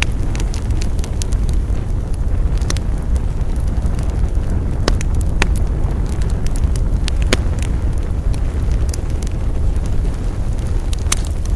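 Campfire crackling, with irregular sharp pops from the burning wood, a few louder than the rest, over a steady low rumble.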